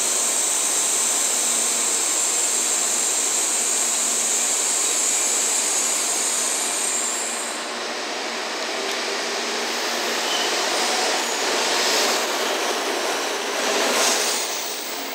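N700-series Shinkansen train running into the station platform: a steady high hiss that cuts off abruptly about halfway, then the broad rush of the passing cars with louder surges of wheel and rail noise near the end.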